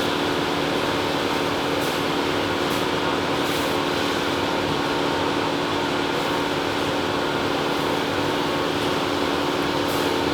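Bryant furnace blower fan running steadily: an even rush of moving air with a steady low hum from the motor.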